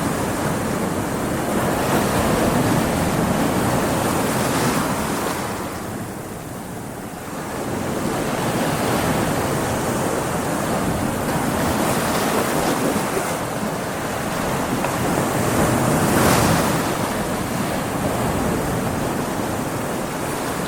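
Ocean waves breaking against rocks: a continuous wash of surf that eases briefly about six seconds in, then builds again to a loud surge later on.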